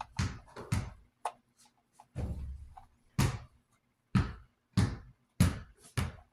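X-Acto knife scraping molding flash off a plastic fan part: a run of short, sharp strokes at uneven intervals, roughly one a second.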